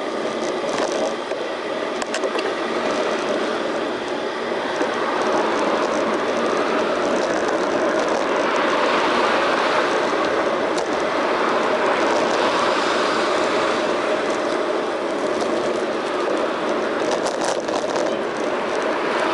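Steady road noise while riding a bicycle in town traffic: wind and tyre noise, growing louder about five seconds in.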